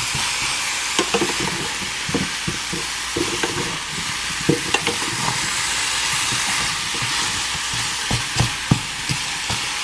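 Frozen cauliflower and mushrooms sizzling in a hot frying pan, a steady hiss, with a utensil knocking and scraping against the pan at irregular moments as the vegetables are stirred.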